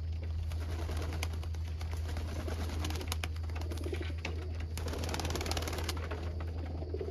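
Racing pigeons cooing in an aviary, with scattered clicks and a quick flurry of rapid clicks about five seconds in, over a steady low hum.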